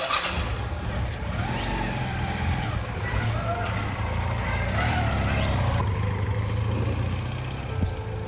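Honda CD200 Roadmaster's air-cooled twin-cylinder engine running steadily.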